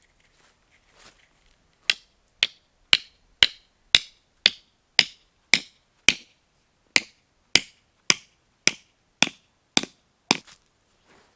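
Hammering: a run of about sixteen sharp, evenly spaced blows, about two a second, with a brief pause about halfway through.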